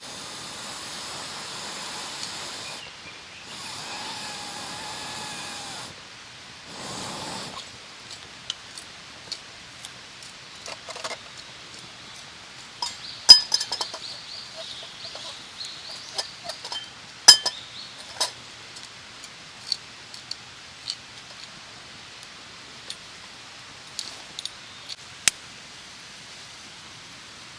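Small metal stove parts clicking and clinking as they are handled and fitted together, with sharp metallic clinks loudest about halfway through. Before that, in the first few seconds, there are three short stretches of steady noise.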